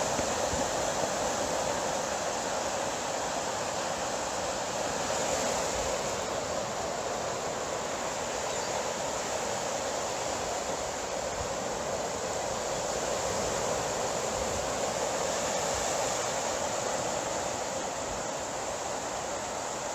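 Ocean surf washing in a steady rush of noise, with no single breaking wave standing out.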